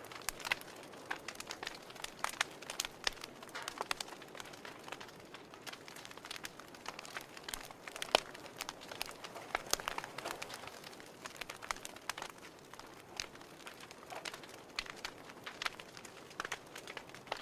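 Fire crackling: irregular pops and snaps over a soft steady hiss, with one louder pop about eight seconds in.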